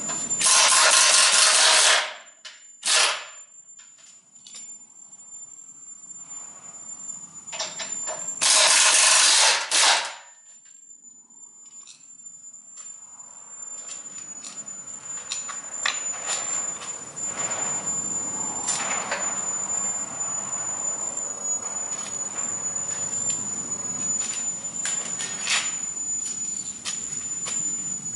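Two loud bursts from a pneumatic air tool, each about a second and a half long, with a short burst between them, during suspension work on a car. After that come scattered clinks and knocks of tools on metal.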